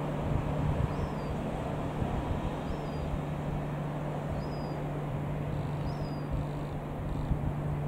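A steady low drone over rumbling outdoor noise, with a small bird giving a short high chirp about every second and a half.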